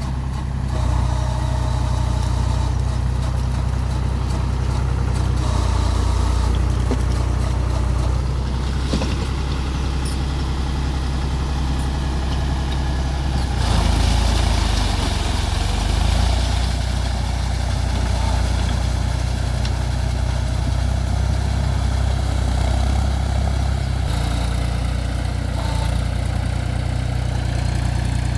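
Mahindra 275 TU tractor's three-cylinder diesel engine running steadily, with a brief surge in level about halfway through.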